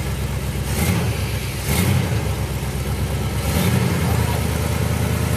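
Four-wheel-drive vehicle's engine running low and slow while rock crawling, with three brief louder surges as it is given throttle.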